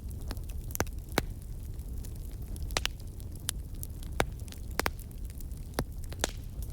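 Wood fire crackling in a fireplace: sharp, irregular pops and snaps over a low, steady rumble of the burning fire.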